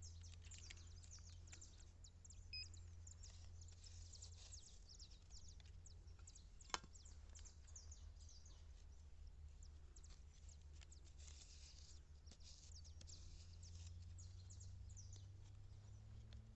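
Near silence: faint outdoor background with many short, high chirps or ticks over a low steady hum, and a single sharp click about seven seconds in.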